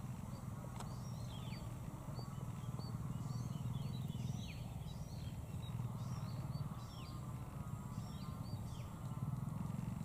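Birds giving short whistled calls that slide downward, several a second, over a steady low rumble.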